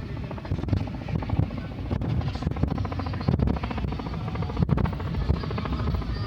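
A loud vehicle engine running, with a low rumble and a fast, even pulse.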